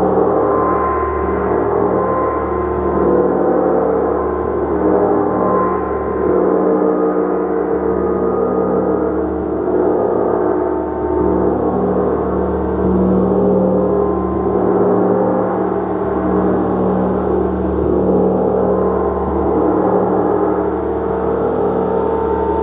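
Gong played continuously: a dense, sustained wash of many overlapping ringing tones that swells and eases gently, with no separate strikes standing out.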